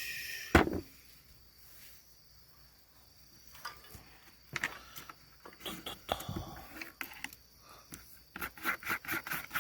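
Utensils stirring and tapping in a small dish: a sharp knock about half a second in, then scattered light clicks and scrapes that come faster near the end.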